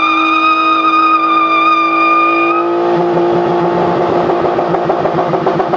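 Car engine held at high revs at a steady pitch, turning rough and pulsing about three seconds in.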